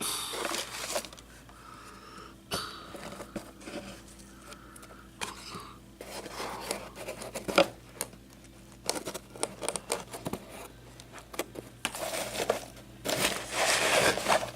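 Handling noise: irregular clicks, scrapes and crinkling, as of small objects or plastic being handled, with louder bursts of rustling about a second in, halfway through and near the end.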